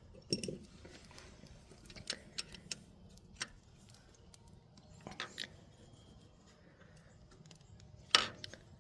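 Scattered small metallic clicks and clinks of hand tools on the valve train while a loose valve's clearance is adjusted at the rocker arm, with a louder clank near the end.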